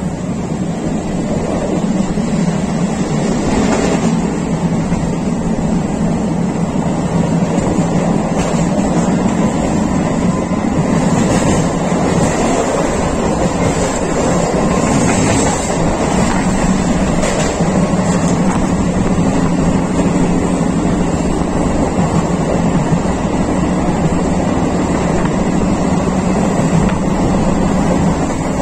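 Electric suburban local train running along the track, heard from on board: a steady rumble with a few brief rattles.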